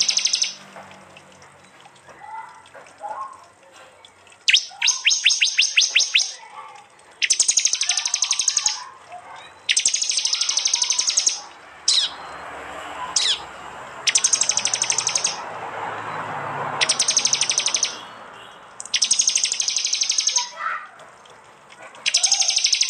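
Prenjak (prinia) calls: loud, high, rapid ticking trills about a second and a half long, repeated every two to three seconds, the hard burst call that bird-keepers call a 'tembakan'. A couple of single sharp down-slurred notes come near the middle, and fainter chirps sit underneath.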